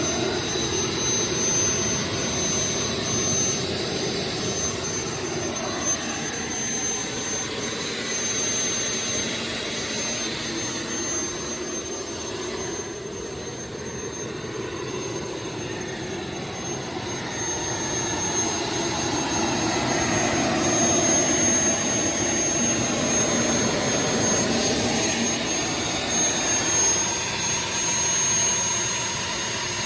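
Boeing T50 gas turbine engine running, with a steady high-pitched whine over its rush. Its sound drops off about twelve seconds in and builds back up from around eighteen seconds as it is revved.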